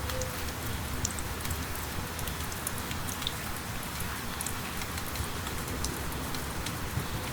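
Steady light rain falling, with many small drops ticking close by.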